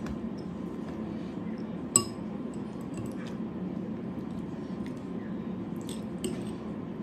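A single sharp, ringing clink of tableware, like a plate or glass being tapped, about two seconds in, with a few faint clicks of eating afterwards over a steady low hum.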